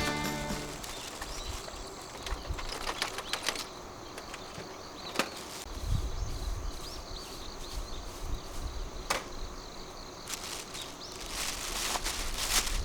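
Wood campfire crackling, with irregular sharp pops and snaps over a soft hiss. The tail of background music fades out in the first second.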